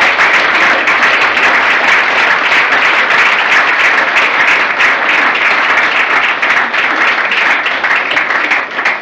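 Loud, sustained applause from an audience clapping, fading out right at the end.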